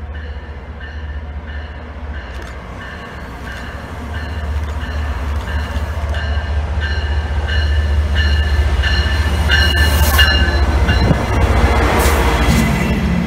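MBTA commuter train's diesel locomotive approaching and passing close by, its bell ringing in a steady repeating rhythm over a low engine and wheel rumble that grows louder as it draws near and passes about ten seconds in.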